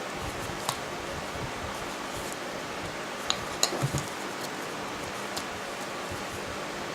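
Steady hiss of background noise with a few light clicks and taps: one about a second in, a small cluster near the middle, and one more later.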